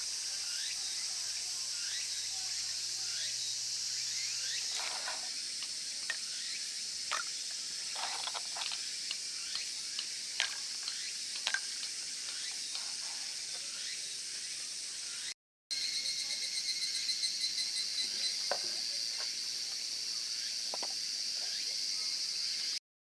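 Steady high-pitched insect chorus, with scattered light clicks and taps. The sound cuts out briefly twice. After the first break, a pulsing insect trill sits over the chorus.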